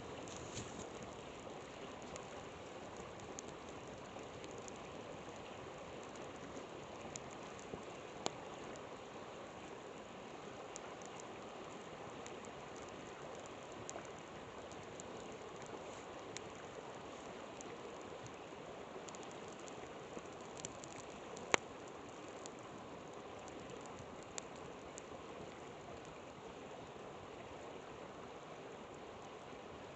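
A river flowing steadily, with a campfire crackling over it in scattered sharp pops, the loudest about two-thirds of the way through.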